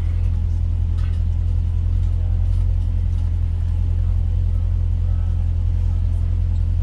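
Steady low engine and road drone heard inside the cabin of a Dodge Challenger Scat Pack under way, without let-up.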